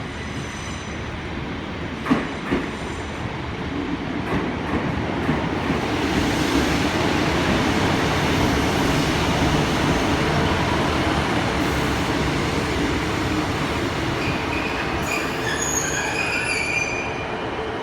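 British Rail Class 150 Sprinter diesel multiple unit running into the platform, its rumble swelling to a peak in the middle. High-pitched brake squeal follows in the last few seconds as it slows.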